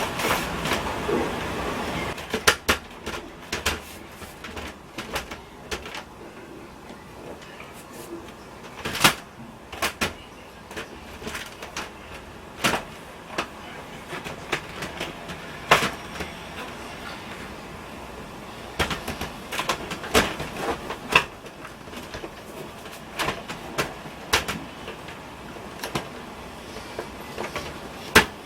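Irregular clicks and knocks of hard parts being handled and set in place, some sharp and loud, with a rustling, busier stretch at the start: the sounds of fitting a window air conditioner's mounting bracket into a window frame.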